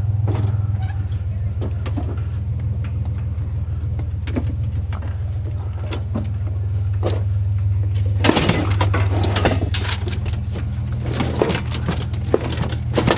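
Pickup truck running, with a steady low engine and road hum and scattered rattles and knocks. The rattling gets busier about eight seconds in.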